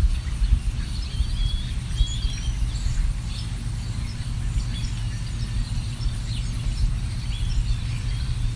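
Several songbirds chirping in short, scattered calls and quick pitch glides over a constant low rumble.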